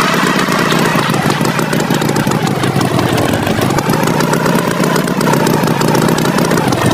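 Tractor engine running steadily as a cartoon sound effect, a rapid chugging whose pitch wavers gently up and down.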